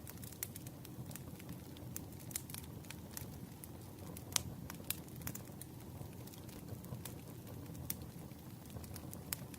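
Campfire burning: a steady low rush of flames with scattered sharp crackles and pops, the loudest a little over four seconds in.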